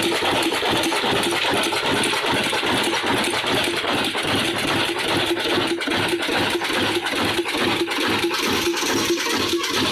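Old Ruston & Hornsby diesel engine running at a steady speed, with an even rhythmic beat of about three beats a second.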